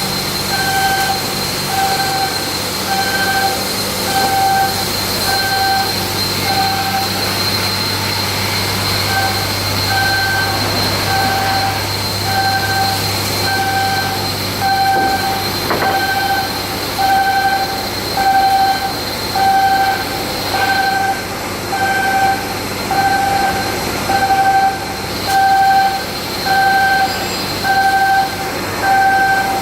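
An electronic warning alarm beeping steadily about one and a half times a second, with a short pause about eight seconds in. It sounds over a continuous machinery hum and a faint high whine, typical of moving equipment in a shipyard.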